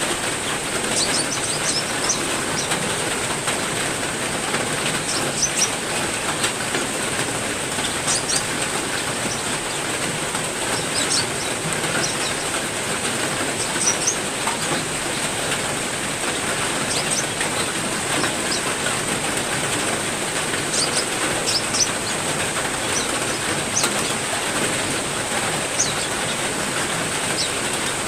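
Steady heavy rain pattering, with short, high chirps of small aviary songbirds scattered throughout.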